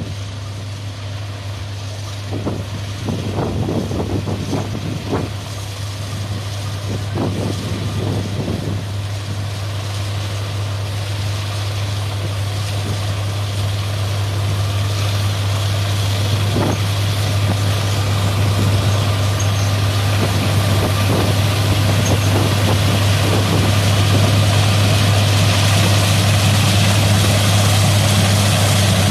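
John Deere S780 combine harvester running in a rice field: a steady engine hum that grows louder throughout, with a few knocks in the first eight seconds or so.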